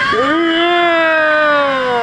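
A jet boat passenger's long, drawn-out scream on the whitewater ride, sliding slowly down in pitch.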